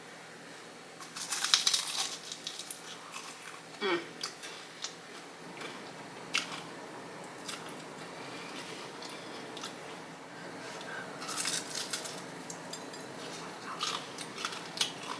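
Close-miked biting and chewing of a crunchy Flamin' Hot Cheeto-coated fried chicken wing. Two bursts of crackling crunch come about a second in and again about eleven seconds in, with softer chewing and small crunches between.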